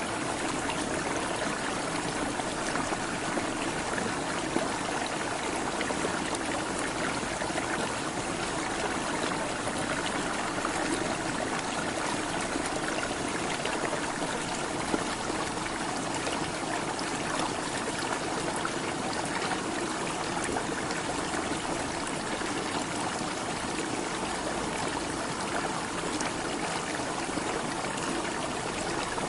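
Water running steadily, like a stream or a trickle.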